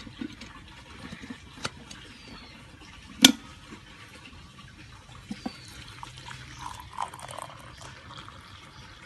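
Small pump-fed water fountain trickling and splashing steadily into a pot of pebbles. A sharp clink about three seconds in, with lighter taps around it.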